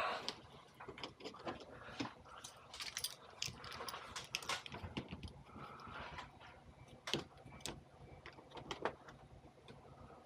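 Scattered light clicks and small metallic clinks at an irregular pace, of tools and fittings being handled during air-conditioner pipe connection work.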